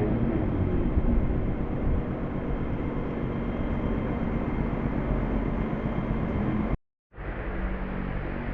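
Steady low mechanical rumble, like a heavy engine running, that drops out for a moment about seven seconds in and then resumes.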